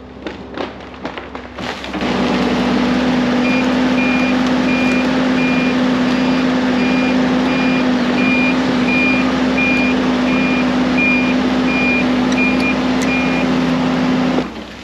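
Heavy machine's engine running loud and steady, with its backup alarm beeping about every half second. A few knocks come in the first two seconds before the engine comes up, and the engine sound cuts off suddenly near the end.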